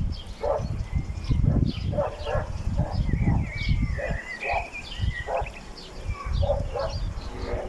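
Short animal calls repeating roughly every half second, with birds chirping and a low rumbling noise throughout.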